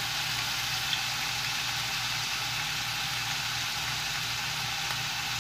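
Minced tofu with diced carrot and peas sizzling steadily in a wok over high heat, under a low steady hum.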